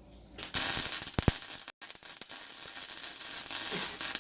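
Electric arc welding on exhaust pipe: a steady, loud crackling hiss from the welding arc, starting about half a second in.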